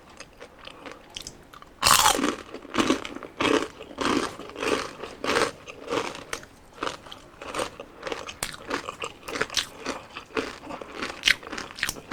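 Close-up mouth sounds of a person biting into and chewing crispy pata skin, the deep-fried pork knuckle rind. One loud crunching bite comes about two seconds in, then repeated crisp crunches about twice a second as it is chewed.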